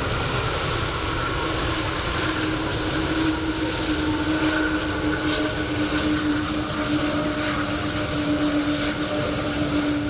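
Airliner engines running loud and steady, a dense noise with a high whine and a steady hum that sets in about two seconds in.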